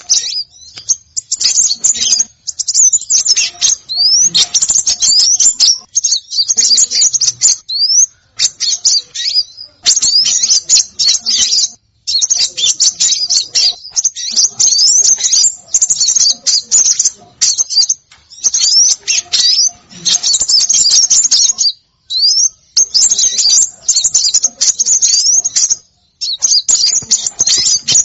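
Small songbirds chirping and twittering in rapid, high-pitched runs with short rising whistles, broken by brief pauses every few seconds: a bird-lure recording of agitated small-bird calls.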